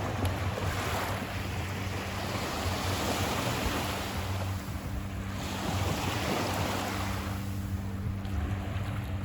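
Ocean surf washing up on a sandy beach, swelling and ebbing every few seconds, with wind on the microphone and a steady low hum underneath.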